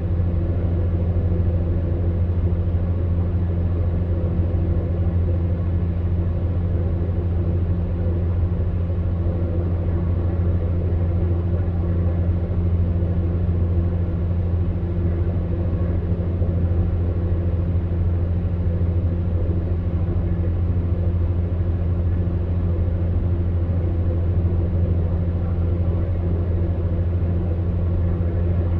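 Electric fan heater running steadily: a monotonous low hum from its motor with an even rush of blown air above it, unchanging throughout.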